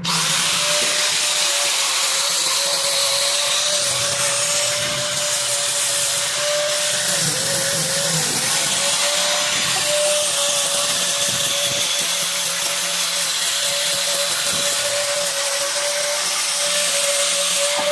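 Electric power tool running steadily on the wood of a cricket bat: a motor whine over a loud rushing noise. The whine sags briefly about seven or eight seconds in as the tool takes load, and it cuts off near the end.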